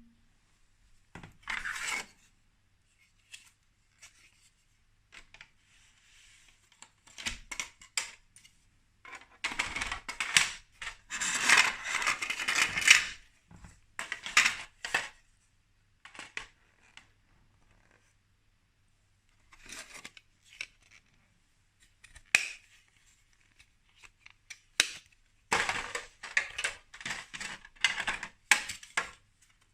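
Small plastic toy building pieces handled by hand, clicking, rattling and clattering in irregular bursts as they are picked up and fitted together.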